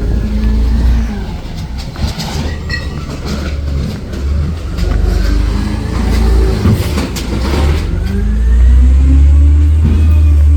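Recycling garbage truck's engine running and revving up and down, with a few sharp knocks in the middle; it is loudest near the end.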